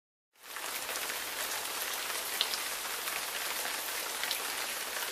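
Steady rain falling, a dense hiss dotted with sharper drop ticks, starting about half a second in.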